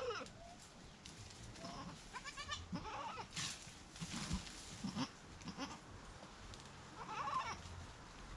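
Goats bleating in a string of short calls, one at the start, a few around two to three seconds in, one near five seconds and one near the end. A brief rustling noise comes about three and a half seconds in.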